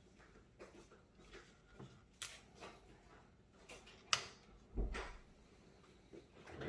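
Hands handling desktop PC case parts: a few sharp clicks and knocks, the loudest about four seconds in, followed by a dull thump.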